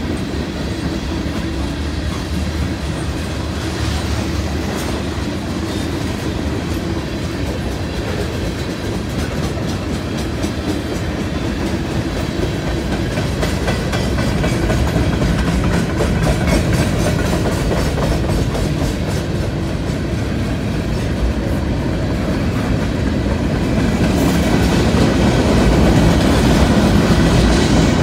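Freight train cars (tank cars and covered hoppers) rolling past, steel wheels clacking over the rail joints over a steady rumble, growing a little louder near the end.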